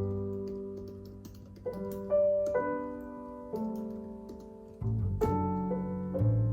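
Slow solo piano background music, chords struck every second or so and left to fade. Light, irregular computer keyboard typing clicks run faintly underneath.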